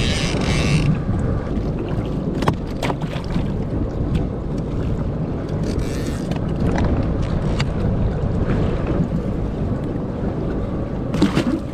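Steady low rumble of a boat's motor under wind buffeting the microphone, with a few short hissing bursts and scattered clicks.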